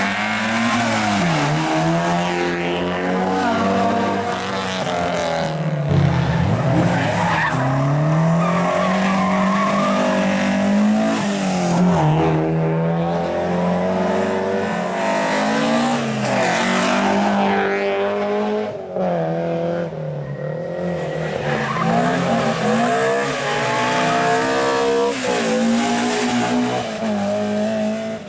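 Rally car engine driven hard, revs climbing and dropping again and again through gear changes and braking for corners.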